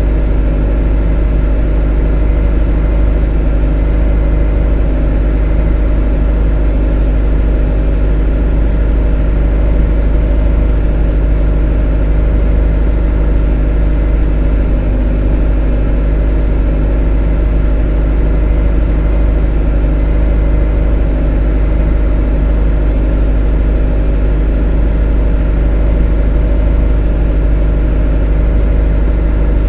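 Motor running at an unchanging speed: a steady low drone with a stack of even tones above it.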